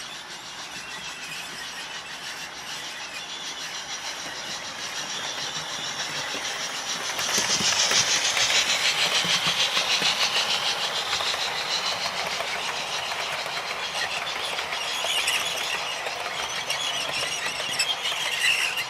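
OO gauge model train running along the track, a high-pitched motor whine with fast clicking of wheels over the rails. It grows louder, is loudest about seven to eleven seconds in as it passes close by, then fades a little.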